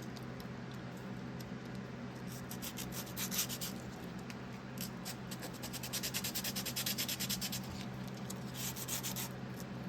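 Sandpaper (220 grit) rubbed by hand over a small, corroded distributor rotor to clean it: quick back-and-forth rasping strokes that come fastest and most evenly a little past halfway, about eight a second.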